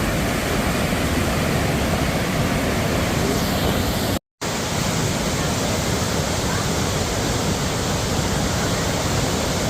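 Niagara River whitewater rapids rushing in a steady, even wash of water noise. The sound drops out for an instant about four seconds in, then carries on unchanged.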